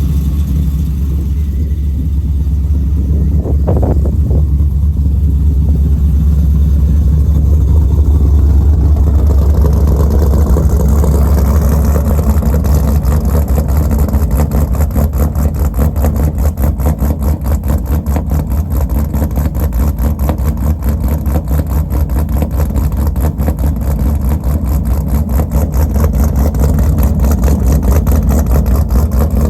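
Pontiac G8 GT's stroked 6.6-litre LS V8 with a BTR Stage 3 PDS camshaft, running at idle after a cold start. The idle is pulsing and choppy, and it turns brighter and harsher about ten seconds in.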